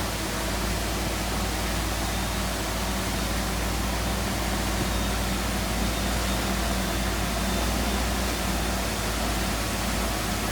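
Heavy diesel earthmoving machinery running steadily, a constant low engine drone under a loud even hiss.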